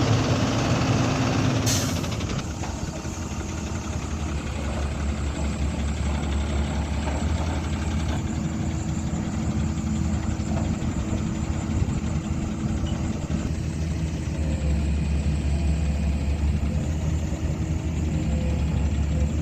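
Heavy diesel engine running steadily, with a short sharp burst of noise about two seconds in.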